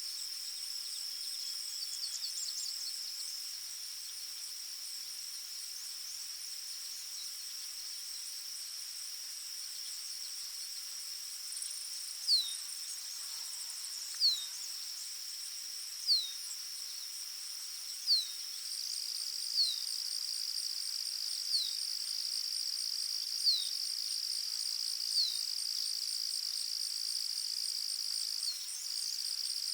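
Forest ambience of insects trilling steadily in a high, unbroken chorus. From about halfway through, a bird repeats a short falling whistle roughly every two seconds.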